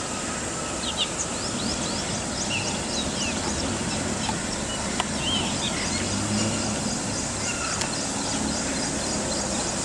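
Small birds chirping in short high notes scattered throughout, over a steady outdoor background rumble and a rapid run of faint high ticks. Two sharp clicks, about one second in and about five seconds in.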